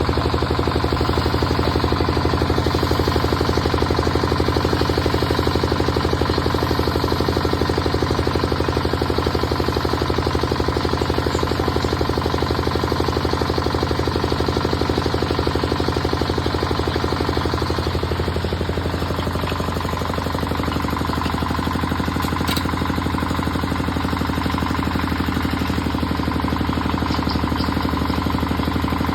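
Engine of road-construction machinery running steadily, its note dipping about 18 seconds in and settling again a few seconds later.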